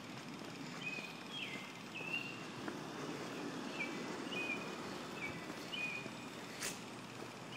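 Small birds chirping over a steady city street hum: short high chirps, often several in a row, throughout. A single sharp click sounds near the end.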